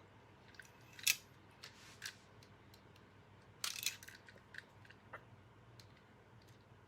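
Faint, scattered small clicks and a brief scrape from hands working on the parts of a Hoover WindTunnel vacuum under repair.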